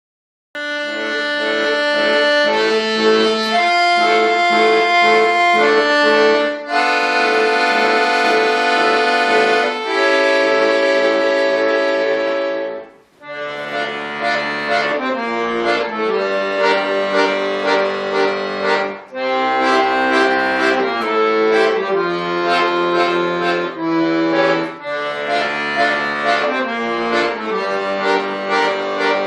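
Bayan (Russian button accordion) playing a piece in sustained chords with a melody over them. The music comes in about half a second in and breaks off briefly near the middle before going on.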